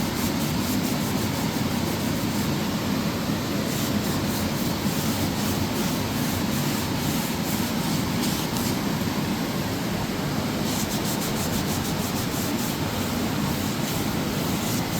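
A wet rag rubbing and wiping over rusty metal, clearing off a rust-removing acid, over a steady background noise.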